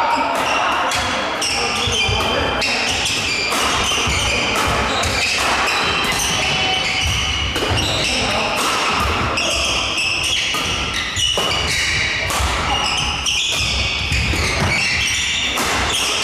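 Doubles badminton being played: rackets striking the shuttlecock in quick exchanges, with footwork on the court, and people talking in the background.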